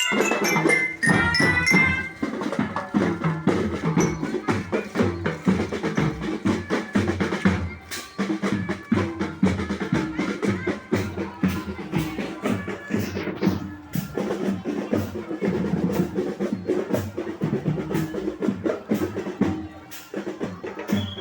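A marching band playing. High bell notes from mallet bells end about two seconds in, and then a drumline of snare and bass drums beats a dense, steady rhythm.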